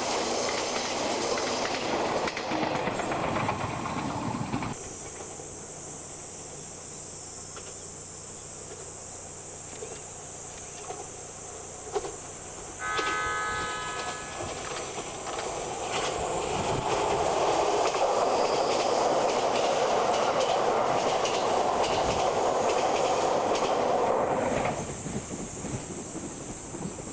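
Trains running past on the rails: loud wheel-on-rail noise that cuts off sharply about five seconds in. Midway a train horn sounds once for about a second, followed by a train passing for about eight seconds before it fades away.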